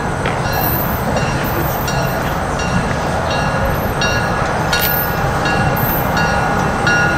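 Cuyahoga Valley Scenic Railroad diesel train approaching from a distance: a steady rumble, with a ringing, most likely the locomotive bell, struck about once a second.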